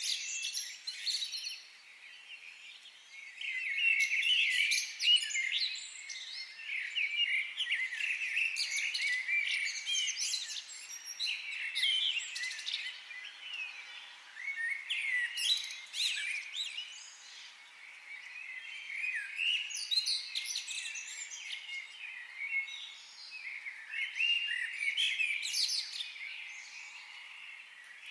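Songbirds singing in a forest: bouts of quick, high chirps and twittering trills lasting a few seconds each, with short pauses between them, over a faint background hiss.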